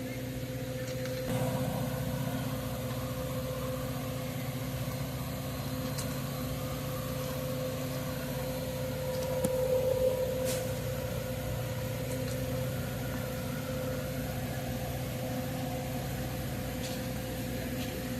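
A vehicle engine idling with a steady hum that swells briefly about halfway through.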